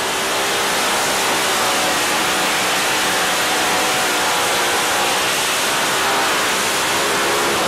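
Pulling tractor's engine held at full throttle under a loud, steady rushing noise.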